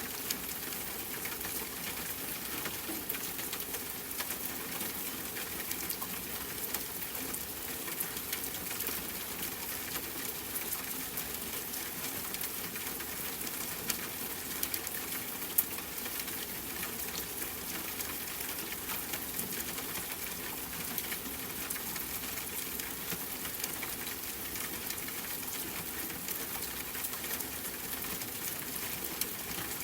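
Steady rain falling outside a window, a soft patter of many small drop ticks over a constant hiss, with one sharper drop about halfway through.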